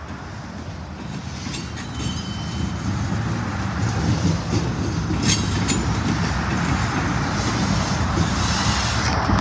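Slow freight train of double-stack container cars rolling past: a steady rumble of wheels on rail that grows louder over the first few seconds, with a few sharp clanks and a brief faint high squeal about two seconds in.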